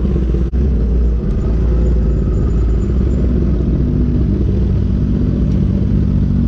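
Motorcycle engine running steadily with a low rumble, with a brief dip about half a second in.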